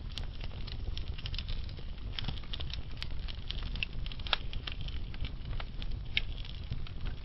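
Burning wood logs crackling, with frequent small irregular pops over a low steady rumble and a couple of sharper snaps, one near the middle and one about six seconds in.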